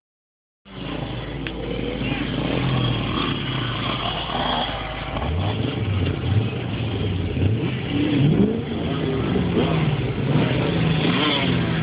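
A vehicle engine running and being revved, its pitch rising and falling unevenly. It starts about half a second in.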